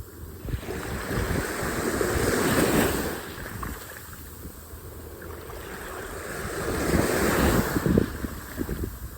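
Surf washing onto a beach, swelling and fading twice, with wind buffeting the microphone.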